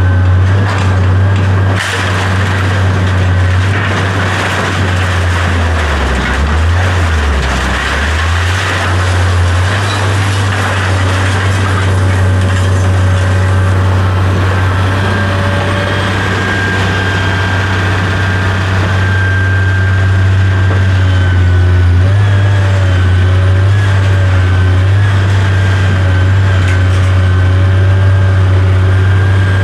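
Heavy vehicle's diesel engine running steadily with a deep hum and a fainter high whine over it. The engine note dips briefly about six seconds in, then recovers.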